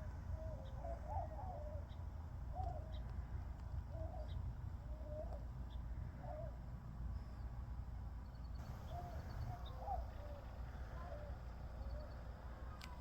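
A bird giving a string of short, low, bending calls, about one a second, with a pause of a couple of seconds in the middle, over a steady low rumble.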